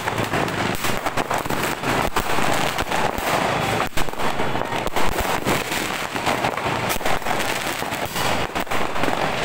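Fireworks and firecrackers going off in rapid, irregular, overlapping bangs and crackles, with sharper bangs about four and five seconds in.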